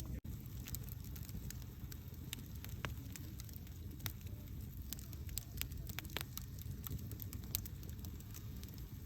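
Campfire burning, with a steady low rumble of flame and frequent irregular sharp crackles and pops of wood. There is a momentary dropout just after the start.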